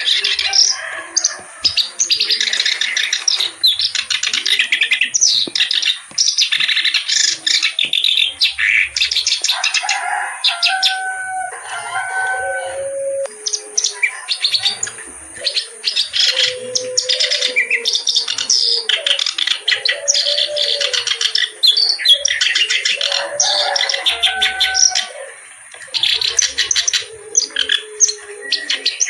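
A kerak basi (reed warbler) singing continuously in long, rapid, chattering phrases of harsh repeated notes, mixed with a few lower whistled notes.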